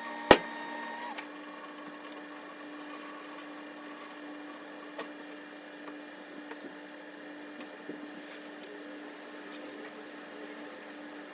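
A steady low hum, with one sharp click about a third of a second in and a few faint ticks after it.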